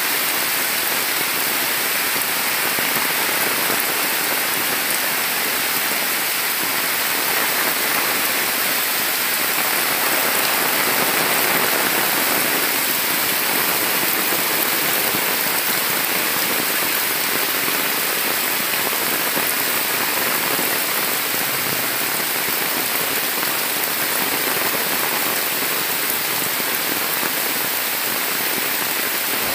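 Heavy monsoon rain pouring onto leaves, trees and a waterlogged dirt path: a dense, steady hiss that does not let up.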